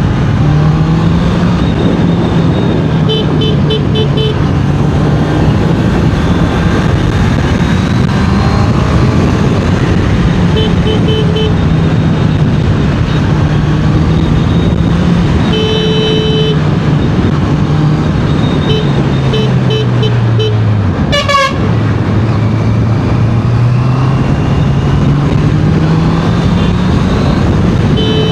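Honda CBR650R inline-four engine running under way, its pitch rising and falling with the throttle and dropping off then picking up sharply about three-quarters through. Short horn beeps sound several times over it.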